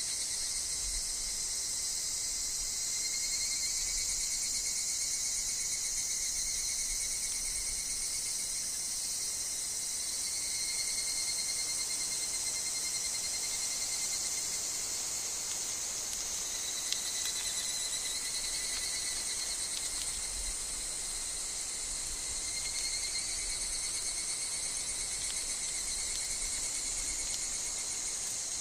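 Summer insect chorus with higurashi (evening cicadas) singing: a steady high-pitched shrill, with pulsing tones that swell and fade every few seconds.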